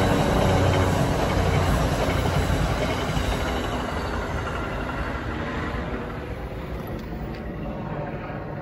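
NJ Transit electric locomotive-hauled commuter train crossing a girder bridge, its wheel-on-rail noise loud at first and fading steadily as it moves away.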